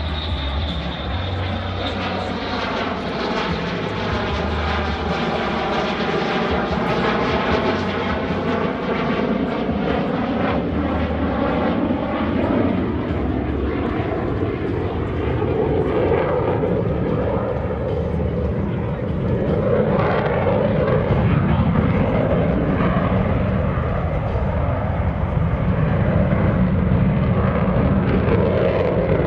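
Block 30 F-16C's General Electric F110 jet engine, heard from the ground during a flight demonstration: a continuous loud jet roar with a sweeping, phasing shimmer over the first ten seconds as the fighter passes. It grows louder about two-thirds of the way through.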